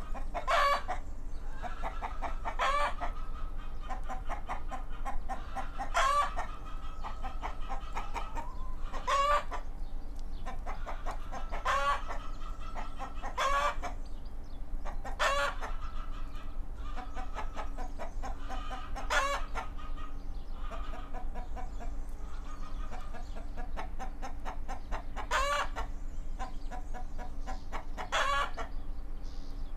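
Chickens clucking, with a short, sharp call every second or two and softer clucks between, over a faint steady hum.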